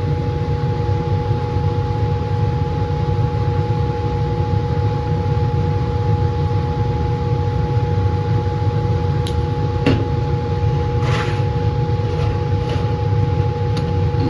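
Laminar flow hood's blower running steadily: a low rumble with a steady two-tone hum. A few small clicks and a brief rustle of handling come about ten seconds in.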